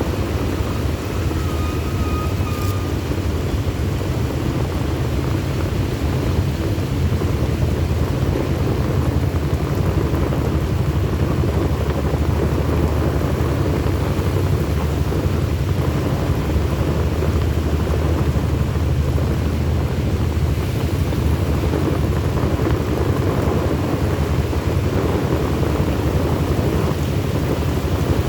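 A vehicle driving through heavy rain: a steady low rumble of road and rain noise with rain hiss, unbroken throughout.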